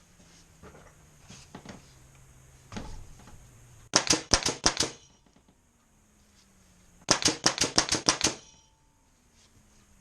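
Bostitch pneumatic framing nailer dry-fired with no nails loaded, in two rapid bursts of sharp cracks, about seven a second, starting about four and seven seconds in. It is the test run of a trigger valve resealed with a substitute O-ring.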